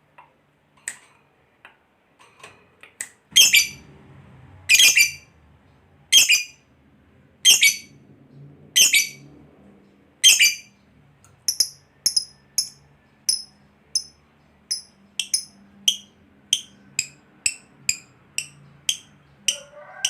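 Lovebird giving sharp, shrill calls: a few faint chirps at first, then loud single calls about every second and a half, turning into quicker, shorter calls from about halfway, over a faint low hum.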